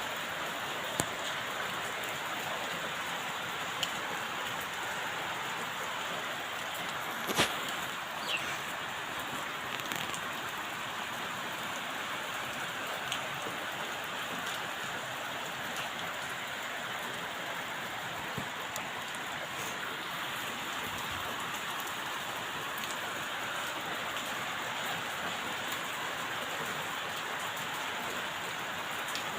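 Steady rain falling, with scattered sharper drip impacts and one louder knock about seven and a half seconds in.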